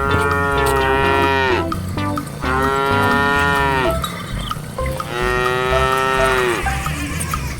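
Cattle mooing: three long, drawn-out moos in a row, each about a second and a half and dropping in pitch at the end.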